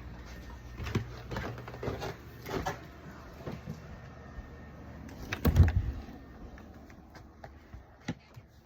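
Scattered knocks and clicks of things being handled, with one louder thump about five and a half seconds in, over a faint low hum.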